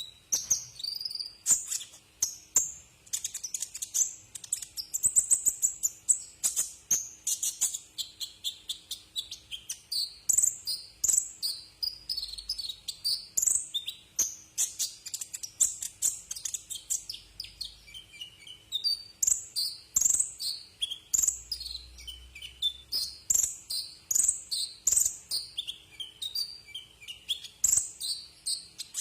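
Kolibri ninja sunbird singing: a fast, continuous stream of short, high, sharp chirps and trilled notes, several a second, varying in pitch.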